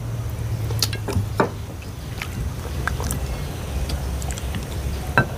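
Light clicks and taps of chopsticks and bowls during a meal, a few scattered strikes over a steady low rumble.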